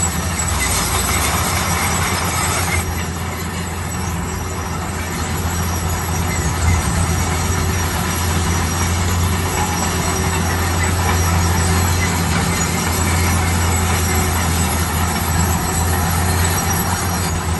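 Heavy road construction machine's diesel engine running steadily with a low hum, under a noisy clatter that is brighter for about the first three seconds and then eases.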